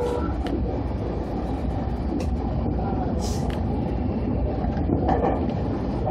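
Electric commuter train running, heard from inside the front car: a steady low rumble from the motors and wheels, with a few sharp clicks and a short hiss about three seconds in.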